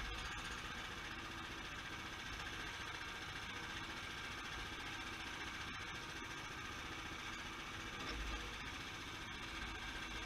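Sawmill engine running steadily at an even pitch, with a brief low thump about eight seconds in.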